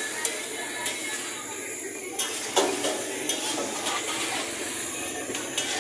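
Chopped onions and daal mix frying in oil on a large flat tawa with a steady sizzle, while a metal spatula clicks and scrapes against the griddle several times.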